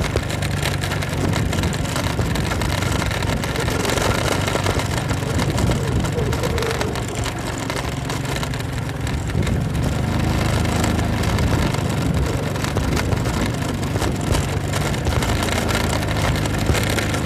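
Motorcycle engine running steadily while riding, with a constant rushing noise over it.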